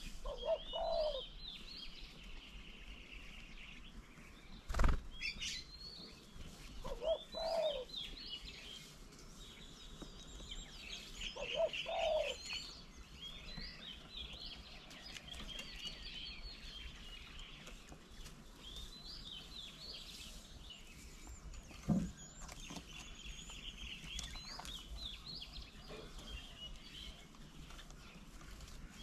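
Small birds at a feeder chirping and twittering almost without pause. A lower call sounds three times in the first half, a few seconds apart. There are two sharp knocks, the louder one about five seconds in.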